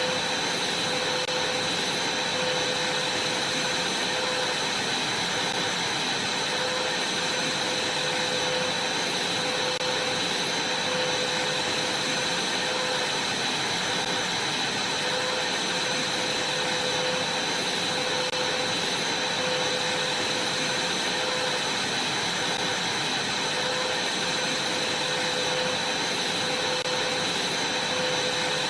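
Vacuum cleaner running steadily, a constant rush of air with a high whine over it.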